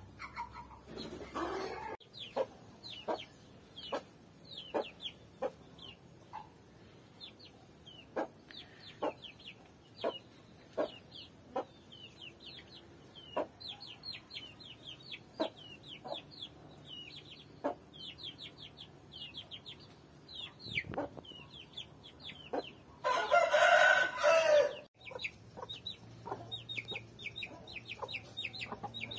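Aseel chicks peeping constantly with short, high, falling notes, over short low clucks about once a second. Near the end a louder chicken call lasts about two seconds.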